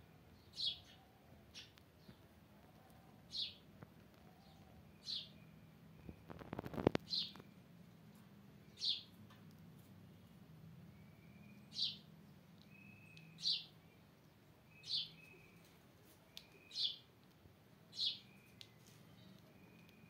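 A bird's short, high chirp, repeated about ten times at uneven gaps of one to three seconds. A brief clatter of clicks comes about seven seconds in.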